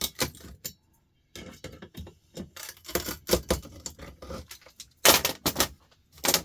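Small metal parts from a dismantled electric cooker hob clinking and rattling as they are handled, in a series of clattering bursts, loudest about five seconds in.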